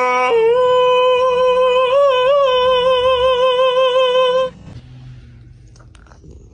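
A dog's yawn drawn out into a long, high-pitched howling note. It slides down briefly at the start, holds steady for about four seconds with a slight wobble in the middle, and cuts off sharply.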